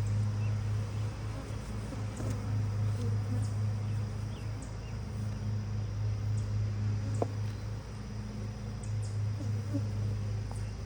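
Honeybees buzzing around an open hive: a steady low hum, with a higher buzz that swells and fades as bees fly near. Faint high chirps sound in the background throughout.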